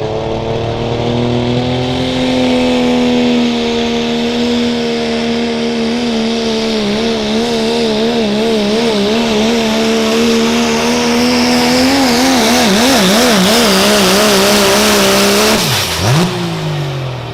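Diesel pickup truck engine at full throttle, pulling a weight sled. The pitch holds high and steady, then wavers up and down through the middle of the pull as the truck bounces and the revs swing. Near the end the throttle is let off and the revs fall away quickly.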